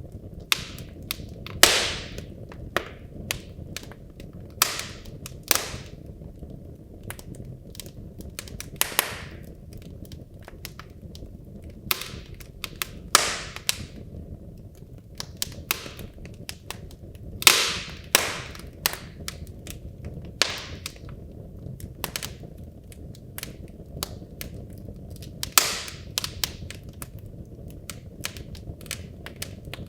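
Wood logs burning in a fireplace, crackling: irregular sharp pops and snaps over a steady low rumble of the flames, with a few much louder pops scattered through.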